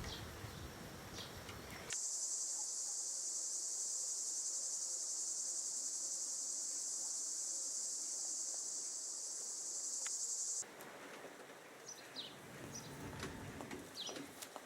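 Insects droning in one steady, high, even band that switches on abruptly about two seconds in and cuts off suddenly about nine seconds later. A few short bird chirps come before and after it.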